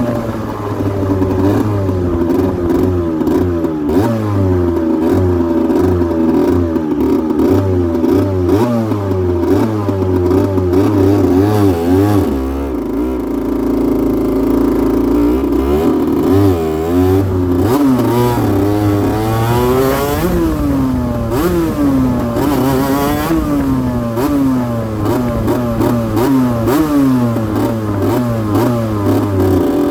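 2008 Aprilia RS125's 125 cc two-stroke single-cylinder engine revving up and down repeatedly, with a steadier higher hold about halfway through.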